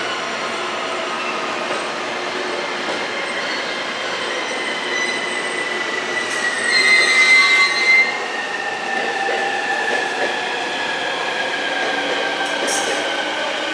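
JR East E531 series electric train moving slowly through the station, its wheels squealing on the rails, loudest for a second or two about seven seconds in. Under the squeal, a whine falls slowly in pitch, as when the train is slowing down.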